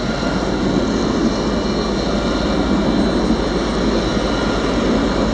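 Jerusalem Light Rail tram running, a steady rumble that grows a little louder.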